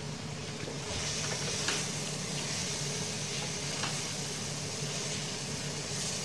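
Chicken and okra sizzling in oil in a karahi, growing louder about a second in as a wooden spatula starts stirring and scraping through it, with a couple of light knocks of the spatula on the pan.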